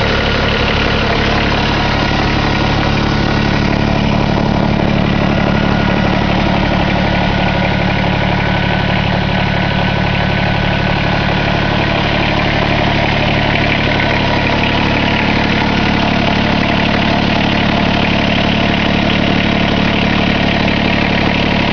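Kubota BX25D compact tractor's three-cylinder diesel engine running at a steady speed.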